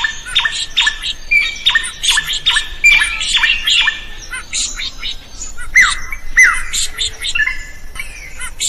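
Drongo singing: a fast run of sharp repeated notes, about three a second, then a more varied string of calls, with two falling whistles about six seconds in.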